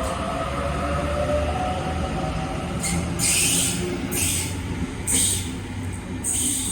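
Sydney Trains electric suburban train running through the station: a steady low rumble with a faint whine rising in pitch over the first couple of seconds. From about halfway in come a series of short, high, hissing screeches about once a second.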